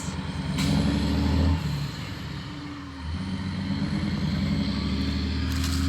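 Motor vehicle engine running close by at low speed, a low hum that swells about half a second in, dips briefly around two to three seconds, then runs steadily again.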